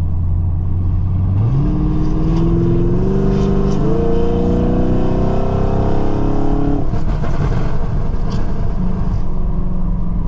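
Camaro SS's 6.2 L LT1 V8 through long-tube headers: cruising steadily, then accelerating with the engine note climbing for about five seconds until the throttle closes near the seventh second. After the lift-off the exhaust runs rough with crackles and pops on overrun from the burble tune.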